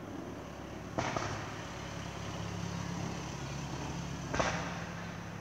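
Fireworks going off at a distance: a sharp bang about a second in, followed closely by a second, and a louder bang about four seconds in, over a steady low hum.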